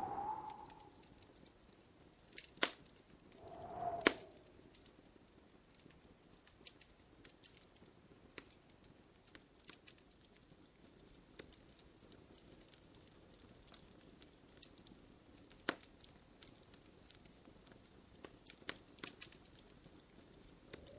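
Wood fire crackling in a fireplace: scattered sharp snaps and pops, the loudest about two and a half and four seconds in. A short, soft hooting tone comes at the start and again about four seconds in.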